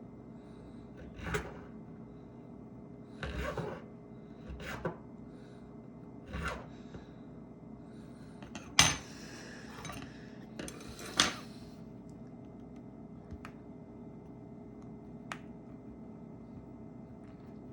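Small metal repair tools and phone parts clicking, tapping and scraping in scattered knocks during hands-on work on a phone, the two sharpest clicks about nine and eleven seconds in.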